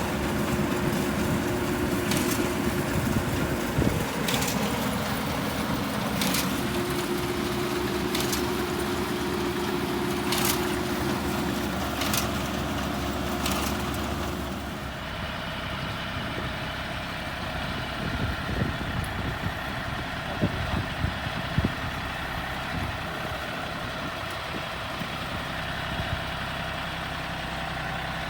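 Rice combine harvester running: a steady machine hum with a regular tick about every two seconds. About halfway through the sound changes, the high hiss and the ticks dropping away and leaving a quieter, lower engine sound with a few scattered knocks.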